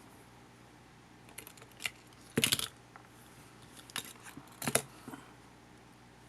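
Small hard clicks and short clatters, about six in all and the loudest about two and a half seconds in: small tools and parts being handled and set down while a compact camcorder is taken apart.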